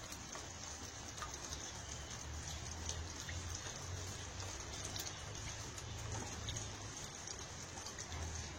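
Steady hiss with many small scattered ticks, over a low hum.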